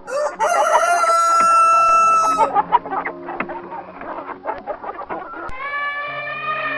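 A rooster crowing, one long call, followed by a run of short clucks. A different drawn-out call begins about a second before the end, over quiet background music.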